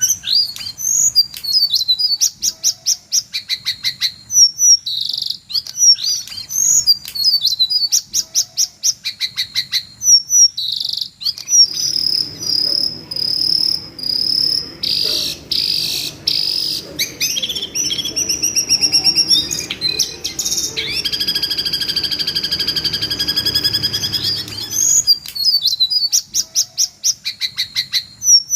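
Recorded shrill, screaming calls of the jongkangan bird, looped as a training track for white-rumped shamas: rapid series of high chirps and whistles, then a stretch of long, steady high whistled notes over a faint low background, after which the chirp series comes back.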